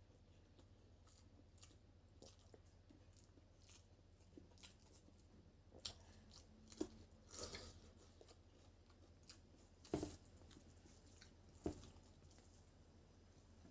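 Quiet chewing and eating mouth sounds, with a few short sharp crunches or clicks, the loudest about ten seconds in.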